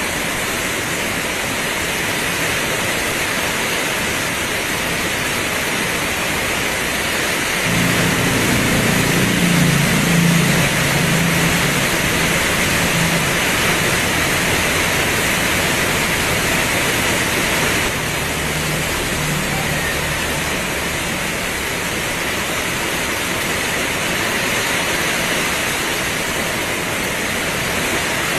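Heavy rain pouring down as a steady, even hiss. About eight seconds in a low hum with a few steady pitched tones starts suddenly under the rain, then fades away after about eighteen seconds.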